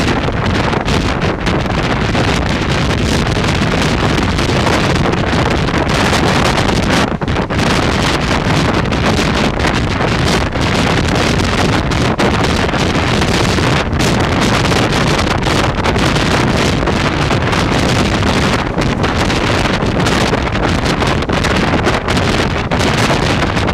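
Wind rushing over the microphone at the window of a moving passenger train, over the train's steady running noise on the rails.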